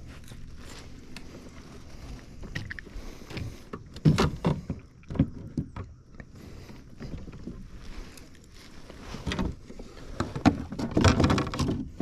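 Irregular knocks and clatter of gear being handled aboard a kayak. They are loudest about four seconds in and again near the end.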